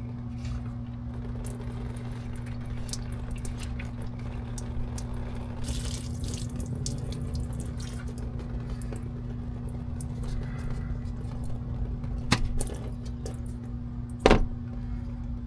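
Light handling noises from hand tools and parts on a truck's fuel filter housing, with scattered small clicks and two sharp metallic knocks near the end, the second louder. A steady low hum runs underneath.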